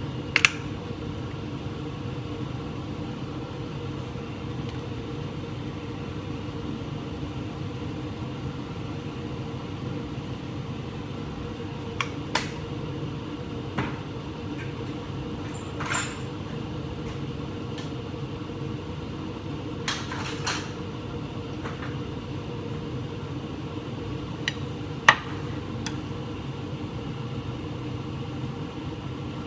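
A steady low hum runs throughout, broken by a handful of sharp clinks of metal utensils on a pan or dish, the loudest near the end.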